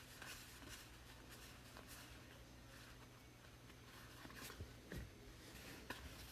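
Faint handling of trading cards: cards sliding and flicking against each other in short scrapes and light clicks as a pack is sorted through, over a steady low room hum.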